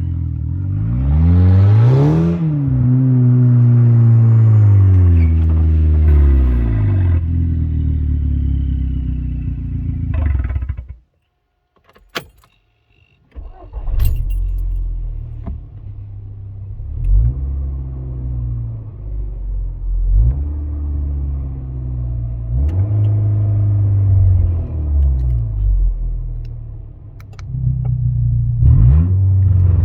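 Exhaust of a VW Golf Mk6 GTI's turbocharged four-cylinder engine with a K04 turbo and a 3-inch Milltek exhaust with exhaust valve: a quick rev up and down, then held at raised revs. The sound stops suddenly about eleven seconds in, a few clicks follow, and the engine then runs again with a series of short throttle blips.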